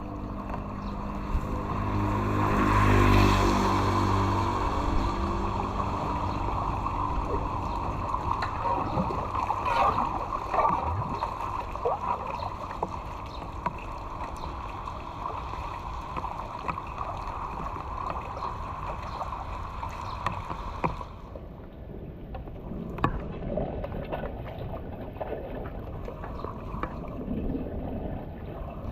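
Floodwater rushing and gurgling through a cleared drain in a steady flow, swelling louder a few seconds in. The sound turns abruptly duller about two-thirds of the way through.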